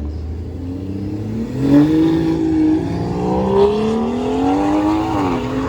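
A car engine revving up as it accelerates away. Its pitch climbs from about a second and a half in, eases briefly, climbs again, and drops off near the end as the driver lets off.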